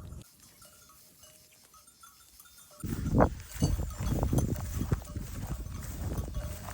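Faint clinking of livestock bells on grazing sheep and goats. About three seconds in, a much louder low rumbling noise with irregular thuds takes over.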